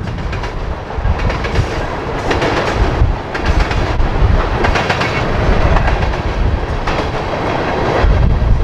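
Freight train of tank cars rolling past, the steel wheels clicking over rail joints above a steady low rumble.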